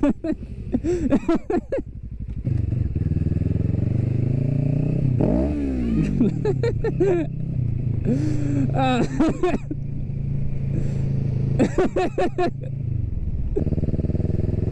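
Motorcycle engine running steadily, blipped into short revs several times, each rising and falling. A brief rapid clatter of sharp clicks comes about twelve seconds in.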